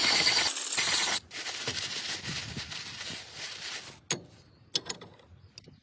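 Mechanical tool work: a loud hiss for about a second, then a fading rattle, then three sharp metallic clicks.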